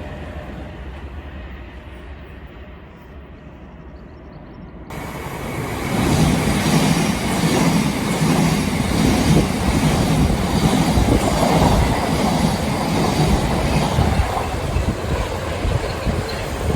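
Passenger train running past: a fading low rumble gives way, about five seconds in, to a loud passing train with a steady rhythm of wheels clicking over rail joints.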